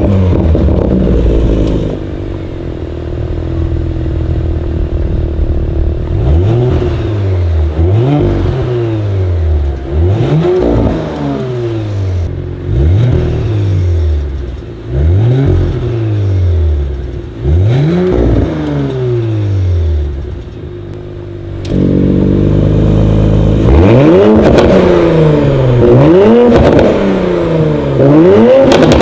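Audi RS5 B9's twin-turbo V6 through a Fi Exhaust valvetronic catback, idling and then revved in quick blips about every two seconds with the exhaust valves closed. About three-quarters of the way through, the valves are opened and the blips become clearly louder.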